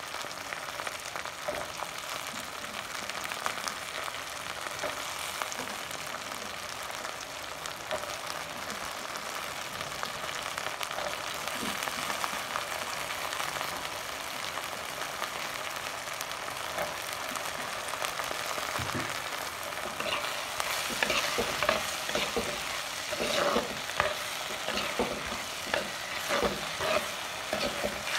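Turkey berries, onion and tomato sizzling in hot oil in a pan, a steady hiss. About twenty seconds in, a spatula starts stirring them, adding repeated scraping and clattering against the pan.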